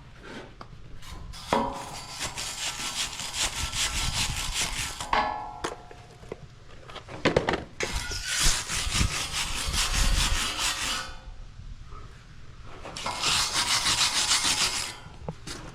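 Wire-feed MIG welder arcing in three bursts of a few seconds each, a dense crackle, with a few knocks in between.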